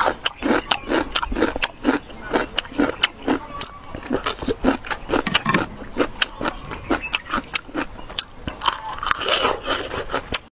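Close-up crunchy chewing of pickled Chinese onion bulbs (jiaotou), about three crunches a second, with a brief denser crunching near the end.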